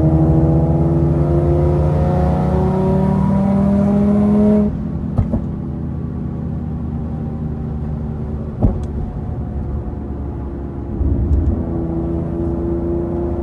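Infiniti G37's 3.7-litre V6 with full bolt-ons and a loud exhaust, accelerating hard with its note rising steadily, then dropping off suddenly about four and a half seconds in as the throttle closes. Two sharp pops follow during the quieter cruise, and a short burst of throttle comes near the end.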